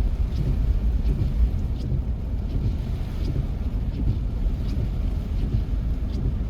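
Low, gusting rumble of a moving vehicle, road and wind noise, with a few faint scattered ticks.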